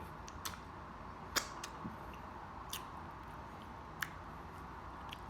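Close-miked eating sounds of someone working on barbecue ribs: a handful of sharp, wet mouth clicks and smacks spread over a few seconds, over a steady low hiss.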